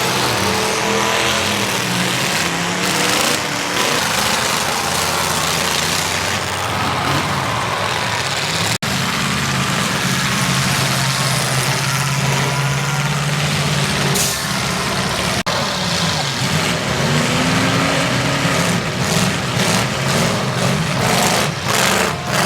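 Demolition derby cars' engines running loudly, with pitches shifting as they rev, and several sharp knocks near the end.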